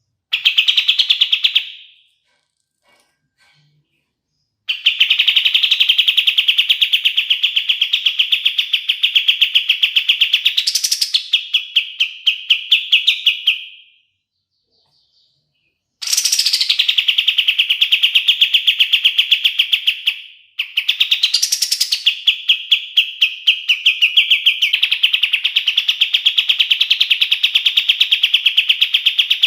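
Kapas tembak songbird singing long, rapid rolling trills of fast repeated notes, each run lasting several seconds with short breaks between, and a quick upward sweep inside some runs.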